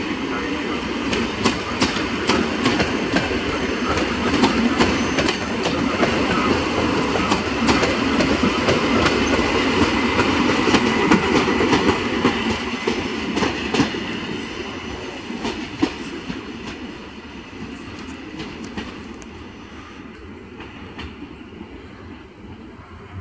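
EN57 electric multiple unit running past, its wheels clacking over rail joints in irregular sharp clicks. The noise is loudest in the first half and fades steadily over the last ten seconds as the unit draws away.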